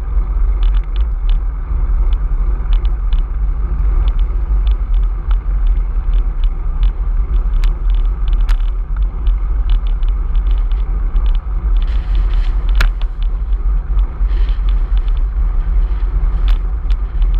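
Violent wind buffeting the microphone: a heavy, gusting low rumble throughout, with scattered light clicks and a brief swell of hiss about two-thirds of the way through.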